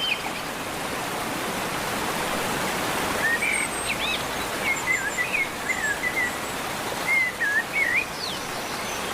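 Steady rain falling, with a bird calling in a run of short chirps from about three seconds in until near the end.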